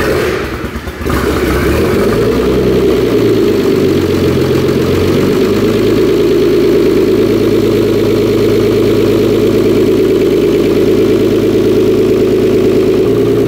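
Nissan 300ZX's freshly rebuilt VG30DETT twin-turbo V6 on its first start. The starter cranks briefly and the engine catches within about a second. Its idle is uneven for a few seconds, then settles into a steady idle.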